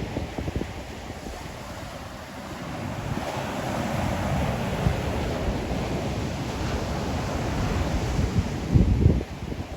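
Ocean surf: waves washing onto the shore, the sound swelling about three seconds in. Wind buffets the microphone, with a loud low rumble near the end.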